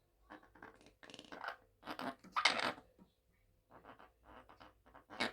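Blue Quaker parrot (monk parakeet) making a string of short raspy chatters rather than a clear whistle, the loudest about two and a half seconds in, then quieter ones.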